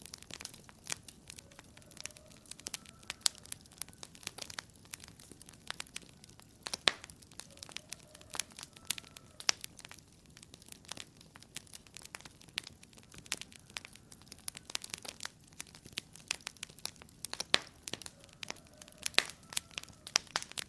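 Wood fire burning in a fireplace, crackling with irregular sharp pops of varying loudness over a faint hiss, and a few faint short squeals from the burning wood.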